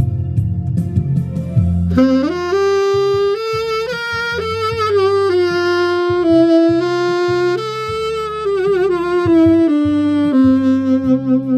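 Saxophone playing a slow melody with vibrato over a backing track with a steady bass line; the saxophone comes in about two seconds in.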